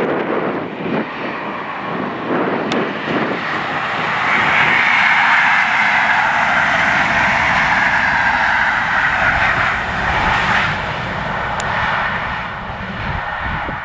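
GWR Class 43 HST power car passing close at speed: a loud, steady rush of engine and wheels on the rails that builds about four seconds in and eases off after about eleven seconds. Wind buffets the microphone at the start.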